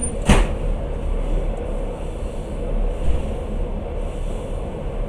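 Passenger train running, a steady rumble of wheels and carriage, with one brief sharp knock about a third of a second in.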